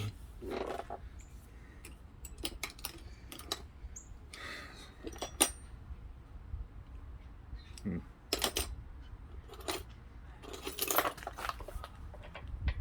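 Metal tools and bicycle pedal parts clinking and tapping: an irregular string of sharp metallic clicks, one ringing briefly about five seconds in, with busier clusters of clinks later on.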